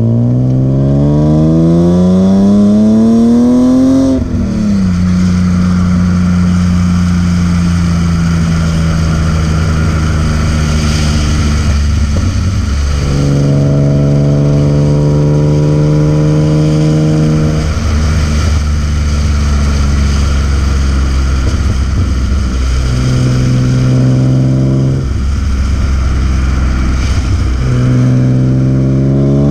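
BMW E36 M3's S50B30 straight-six engine and exhaust under hard driving. The revs climb for about four seconds, then fall sharply. The engine holds a fairly steady note, then steps up and down several times as the revs change with gear changes and throttle, and climbs again near the end.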